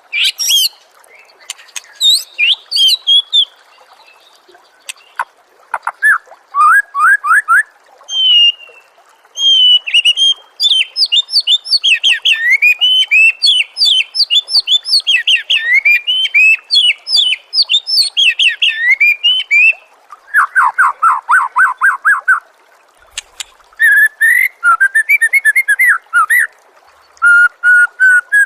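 White-rumped shama (murai batu) singing a loud, varied song of fast repeated sweeping notes and trills, phrase after phrase with short pauses between.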